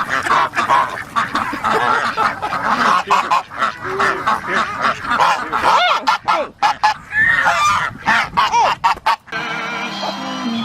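A group of waterfowl calling over one another in dense, overlapping calls. About nine seconds in the calls cut off suddenly and background music takes over.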